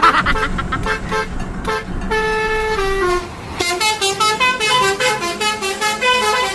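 Indonesian telolet basuri bus horn, a multi-note musical air horn, playing a tune. It holds a couple of long notes, then plays a quick run of short stepped notes, with a low rumble underneath.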